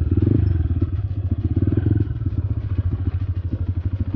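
Motorcycle engine running steadily at low revs, with a rapid, even exhaust beat.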